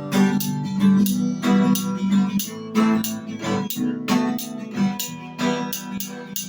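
Acoustic guitar strummed in a steady rhythm, chord strokes coming a few times a second.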